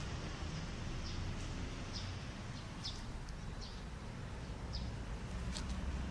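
Small birds chirping: about seven short, high calls scattered through, over a steady low rumble of traffic.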